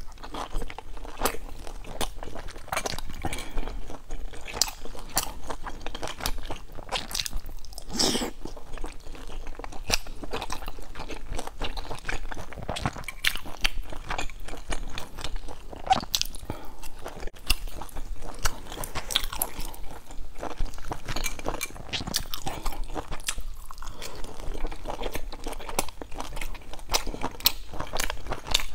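Close-up eating sounds of pan-fried dumplings being bitten and chewed: a continuous, irregular run of short crisp crunches and mouth noises.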